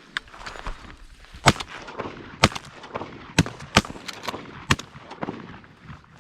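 Several shotguns firing at geese in quick succession, about five loud shots over some three seconds, with fainter sharp pops in between.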